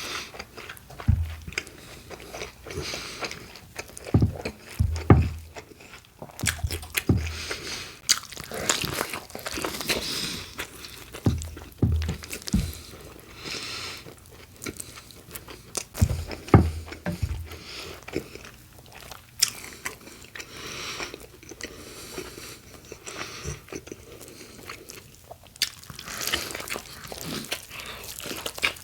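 Close-miked eating of a bacon, lettuce and tomato sandwich on Italian bread: bites, crunching and wet chewing, with irregular crackles and a few low thumps.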